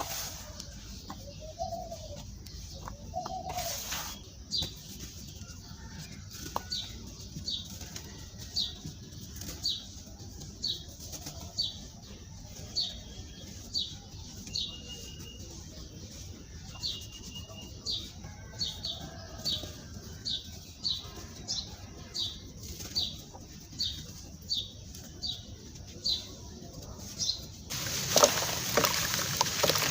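A small bird chirping, short high chirps repeated steadily about once or twice a second. Near the end a loud rough noise sets in.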